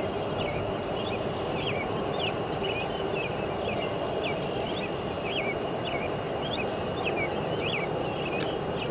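Outdoor ambience: a bird repeatedly chirping short notes, about two a second, over a steady background hiss and a faint steady high insect-like tone.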